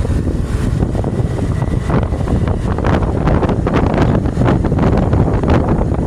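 Wind buffeting the microphone on a moving motorcycle, a loud, unsteady low rumble with road and engine noise underneath.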